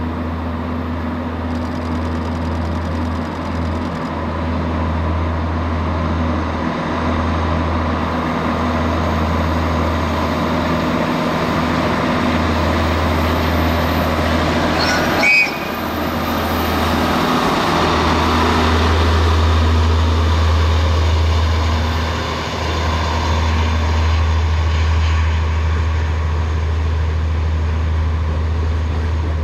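Diesel train running past with a steady low engine drone, and one short sharp clank about halfway through.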